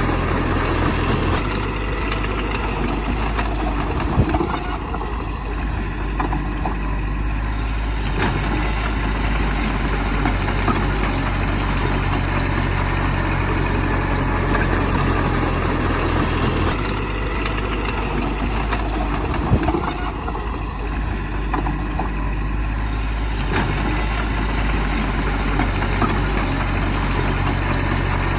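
Heavy diesel engine of earth-moving machinery running steadily, its low tone shifting twice. A sharp knock comes about four seconds in, and again near twenty seconds.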